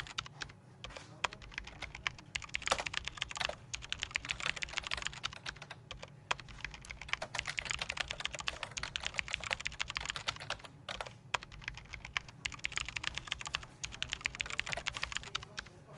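Computer keyboard typing: quick runs of key clicks with brief pauses between bursts, over a faint low background hum.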